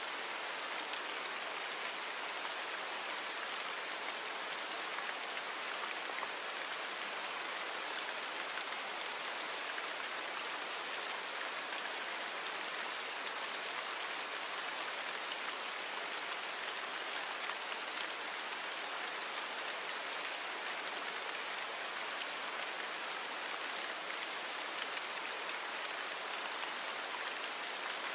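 Steady rainfall, an even hiss that does not change, with no thunder.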